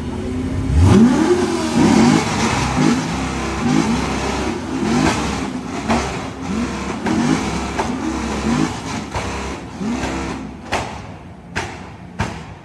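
Several cars' exhausts revved hard at the same time, among them a C7 Corvette's V8 with Kooks headers. The engine notes overlap and climb and fall in pitch again and again, with sharp cracks near the end.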